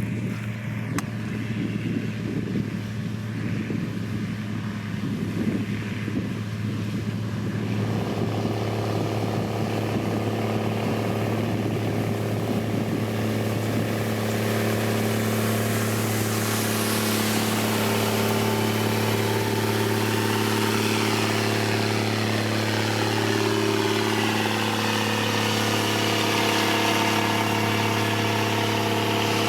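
Diesel engine of heavy road-construction machinery running steadily with a deep, even hum. About eight seconds in, the note fills out with more tones and grows slightly louder, and faint shifting pitches follow later.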